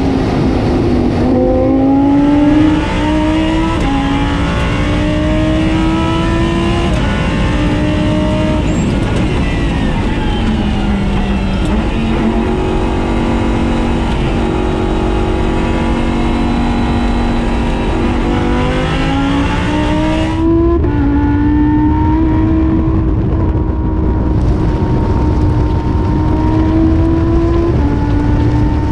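Race car engine under hard acceleration on a track. Its pitch climbs through the gears, and each climb is cut by a quick drop at an upshift. About ten seconds in, the engine falls away as the car slows, holds a fairly steady note for several seconds, then pulls up through the gears again.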